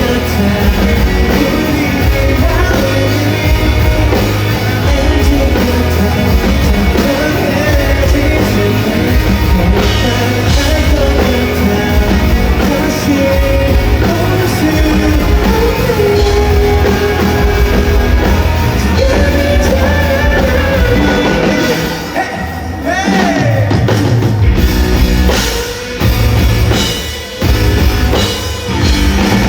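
Live rock band playing with a lead vocal and drum kit, loud throughout. About two-thirds of the way in the band thins out under a wavering rising glide, then plays stop-start hits with short gaps near the end.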